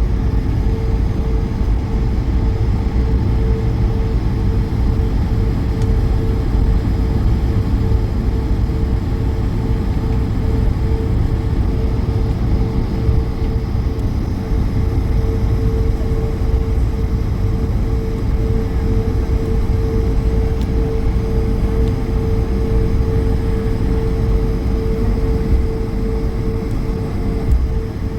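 Airbus A220's Pratt & Whitney PW1500G geared turbofan engines and airflow heard inside the cabin: a loud, steady low rumble with a constant hum.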